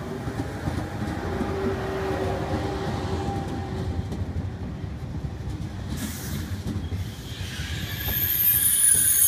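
SNCF TGV Duplex double-deck high-speed train rolling slowly into the platform past the camera, with a low rumble of wheels on rail and a humming tone in the first few seconds. About seven seconds in, a high-pitched squeal of the braking wheels sets in and becomes the loudest sound.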